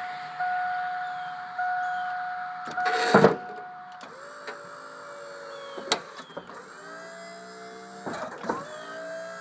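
Fisher snowplow's electric-hydraulic pump motor whining in short pulses of about a second each as the blade is worked, then a loud clunk about three seconds in. After that the pump runs on at a lower, slightly shifting pitch, with a few sharp clicks.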